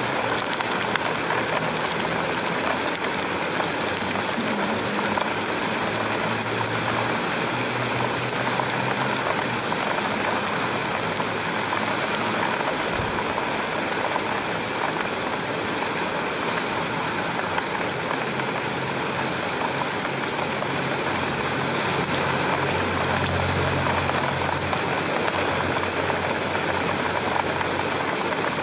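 Heavy cloudburst rain pouring steadily on roofs and a wet street, a dense even hiss. A low car-engine hum comes and goes underneath it.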